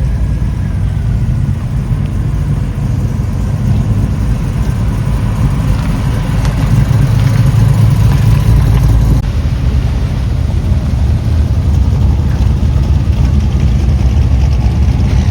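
Classic cars driving slowly past one after another, their engines running at low throttle in a steady low engine sound that swells as each car comes close, loudest about halfway through and again near the end.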